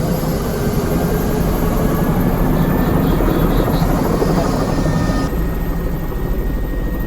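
Helicopter's engine and rotor running loud and steady just before lift-off; the sound changes abruptly about five seconds in.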